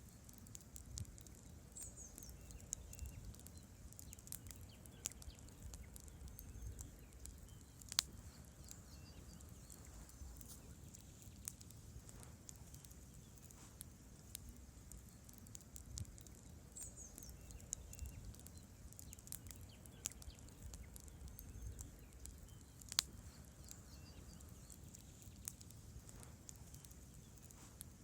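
Wood campfire burning: logs crackling with scattered small snaps over a low rumble of flame, and two louder sharp pops, one about a third of the way in and one near the end.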